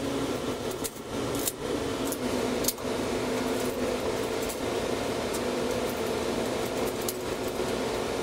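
Steady mechanical hum, with a few small metal clicks as nuts and washers are threaded by hand onto the carriage bolts that hold a swivel caster plate to a steel table leg. The clicks are sharpest about one, one and a half and nearly three seconds in.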